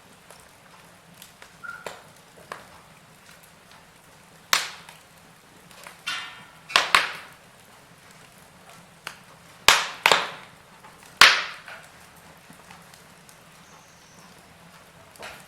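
Wood fire crackling, with a run of sharp, loud pops and snaps over a quiet steady background, clustered in the middle of the stretch.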